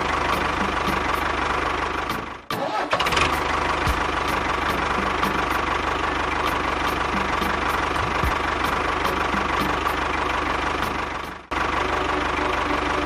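A small motor-driven machine running steadily with a constant whine, broken twice by brief cuts.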